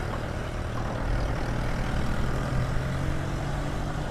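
Bajaj Pulsar NS200 motorcycle's single-cylinder engine running steadily while the bike is ridden slowly through street traffic, with road noise underneath.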